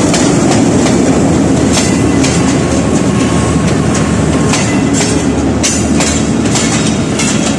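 Passenger coaches of a departing Pakistan Railways express rolling past close by: a steady loud rumble of wheels on rail, with wheels clacking over the rail joints about once or twice a second.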